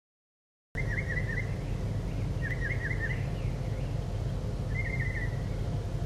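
A small songbird sings a short trilled phrase three times, about two seconds apart, over a steady low outdoor rumble. The sound starts abruptly after a moment of silence.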